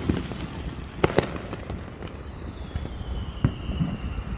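Fireworks going off: two sharp bangs close together about a second in and another at about three and a half seconds, over a steady low rumble. A faint whistle falls slowly in pitch through the second half.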